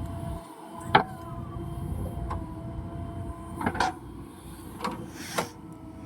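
Heavy diesel machinery running steadily with a constant whine over its rumble, and a series of sharp knocks, the loudest about a second in.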